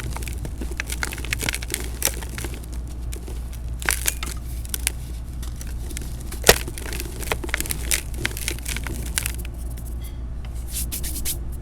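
Dried cement mixed with a little baking soda being crumbled in a pot: an irregular run of crunches and crackles, with one sharper crack about six and a half seconds in, over a steady low hum.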